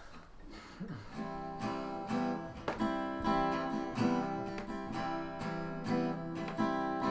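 Acoustic guitar strummed in a steady rhythm, starting about a second in: the instrumental intro of a song.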